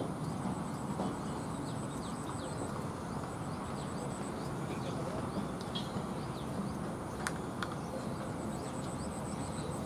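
Outdoor ambience: a steady low rumble with short bird chirps scattered throughout and a high, evenly pulsing buzz. Two sharp clicks come about seven seconds in.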